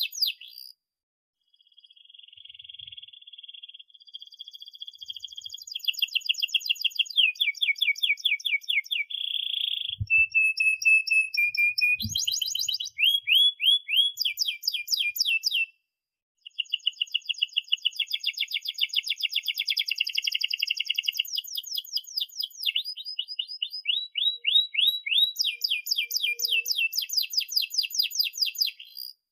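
Domestic canary singing a long, continuous song of rapid trills and rolls made of fast repeated high notes, with a short pause about 16 seconds in.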